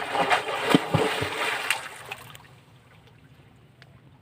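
River water splashing and sloshing, with a few knocks, for about two seconds, then fading to a faint background with occasional soft ticks.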